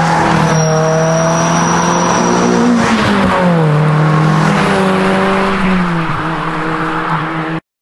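Car engine running at steady revs, its pitch dropping twice. A thin high whine sits over it for the first couple of seconds. The sound cuts off abruptly near the end.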